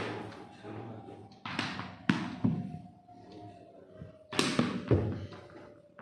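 A series of about five sharp thuds and impacts, a second or two apart, each ringing briefly in the room.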